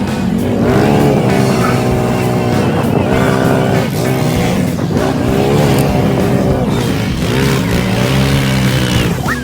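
ATV engines revving up and down over and over, the pitch rising and falling every second or two as the quads are ridden hard.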